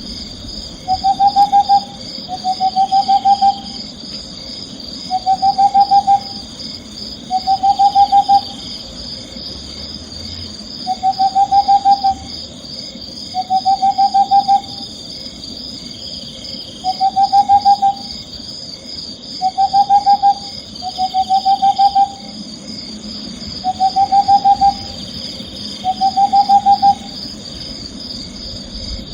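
An owl calling: a short, fast trembling trill, slightly rising in pitch, repeated about a dozen times at roughly two-second intervals, over a steady high-pitched background drone.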